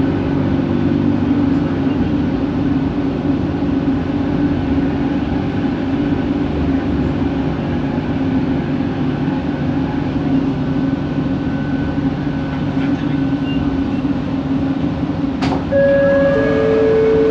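Original Kelana Jaya Line metro train running, its linear induction motors giving a steady hum over the rail and carriage noise. This is the weird motor noise of the original cars. Near the end a click is followed by a two-note falling chime from the train's on-board system.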